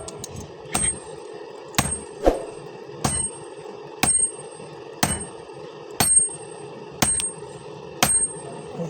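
Hammer blows on steel at an anvil, about one strike a second, each leaving a short high metallic ring, over a steady low hum.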